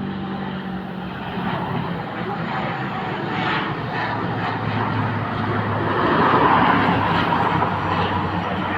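Turboprop engines and propellers of a De Havilland Canada Dash 8 airliner running as it arrives: a steady low propeller hum under a rushing noise that swells to its loudest about six and a half seconds in, then eases.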